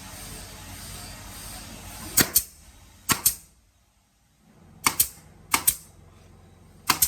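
A steady hiss of workshop machinery, then five sharp double clacks at uneven gaps, the two clacks in each pair a split second apart.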